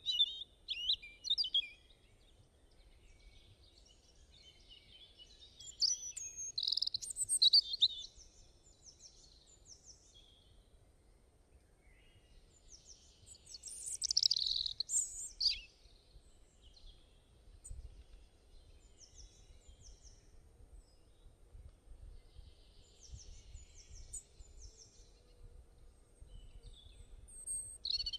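Songbirds singing and chirping, with loud warbling phrases at the start, about six to eight seconds in and about fourteen to sixteen seconds in, and softer repeated chirps between, over a faint low rumble.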